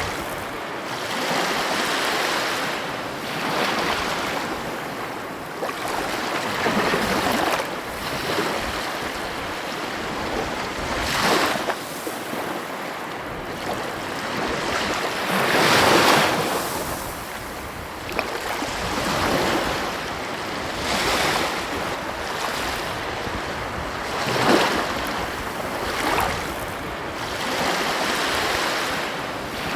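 Ocean surf washing onto a beach: a steady rush of breaking waves that swells and ebbs every few seconds, with a few louder breaks.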